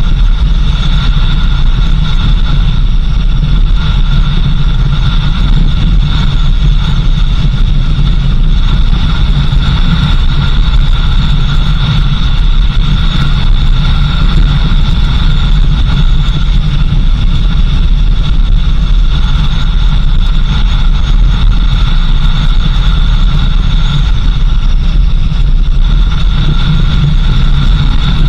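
A vehicle's engine and road noise, a steady low rumble with a constant high whine over it, unchanging throughout.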